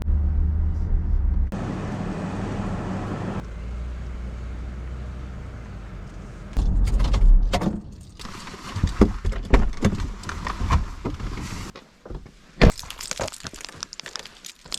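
Car road noise, a steady low rumble heard across several short cut-together clips, loudest about seven seconds in. After about eight seconds it gives way to a run of irregular sharp knocks and clicks.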